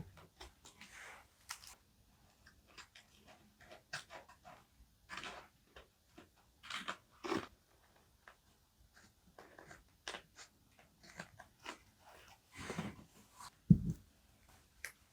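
Paper and stickers being handled on a desk: irregular crinkling and rustling with light taps, and one louder knock near the end.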